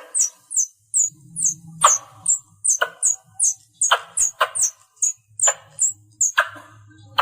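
Squirrel calling: a quick, steady series of short, high chirps that slide down in pitch, about two or three a second, with sharper, louder chips about once a second. It is a call used to draw other squirrels in.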